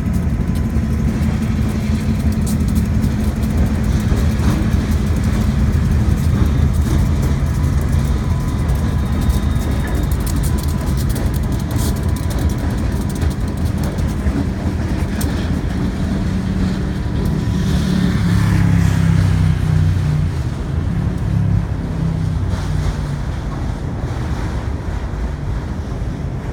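Diesel locomotive engines running steadily with a low, even drone, getting louder for a couple of seconds about two-thirds of the way through.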